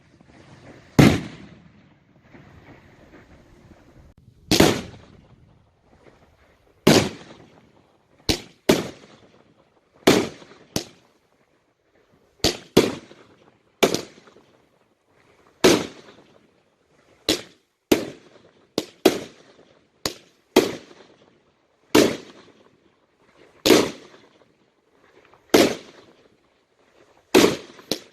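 Fireworks going off: a string of about twenty sharp bangs at an uneven pace, roughly one every second or so and sometimes two in quick succession, each trailing off in a short echo.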